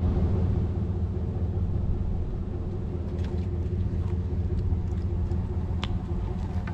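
A motor vehicle engine idling with a steady low hum, with a few faint light clicks over it.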